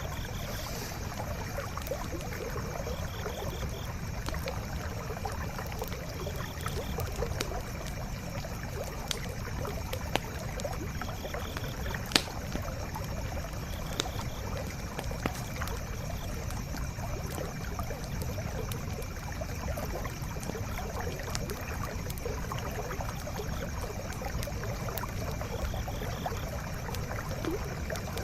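A stream running steadily, with a campfire crackling over it in scattered sharp pops, the loudest about twelve seconds in.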